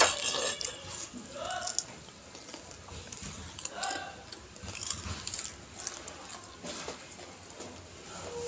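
Popcorn being chewed and crunched: irregular crisp crackles and clicks, with a few short voice-like sounds about a second and a half in and again near four seconds.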